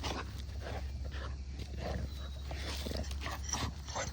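Dogs growling in play as they tug at and tear apart a stuffed toy, in short rough bursts.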